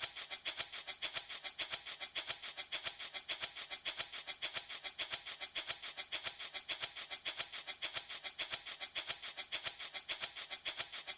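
Handmade wooden baby rattle shaken steadily in an even rhythm of quick, crisp shakes, the rattling beads or grains making a bright, hissy sound.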